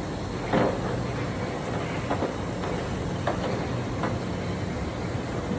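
A machine running with a steady low hum, with a few short sharp knocks or clicks on top, the loudest about half a second in.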